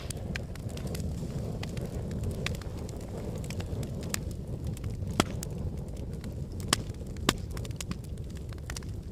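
Wood fire burning in a fireplace: a steady low rumble of the flames with irregular crackles and snaps from the logs, three louder pops a little past the middle.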